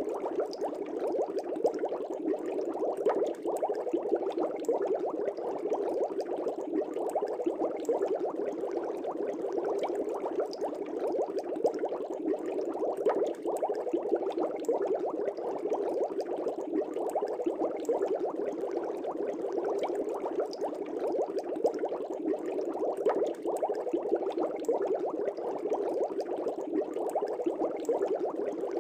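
Aquarium air bubbles rising and breaking in the water, a steady dense bubbling with fine crackles throughout.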